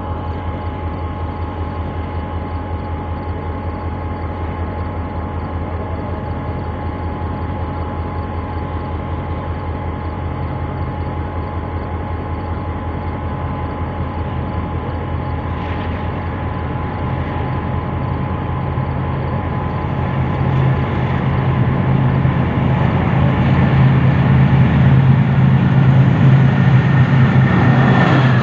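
Diesel locomotive engine running with a steady low drone and a fast, even pulsing, growing louder over the last third.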